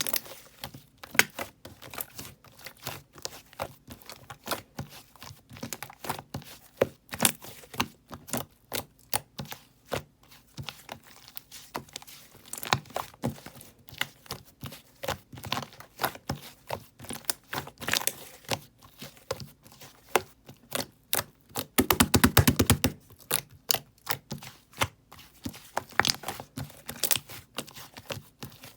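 Clay slime being squeezed and poked by hand: a steady stream of irregular sticky clicks and small pops, with a brief, louder burst of rapid crackling squelches about two-thirds of the way through.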